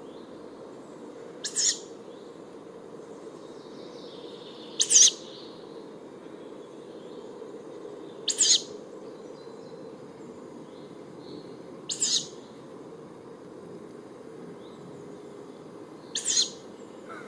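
Juvenile tawny owl giving its hoarse, hissing begging call, five short screeches spaced about three and a half seconds apart, a few of them doubled.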